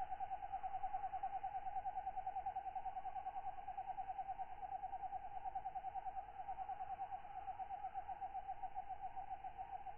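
Katydid calling in a continuous, rapid, evenly pulsing buzz, over a faint hiss of night insect ambiance.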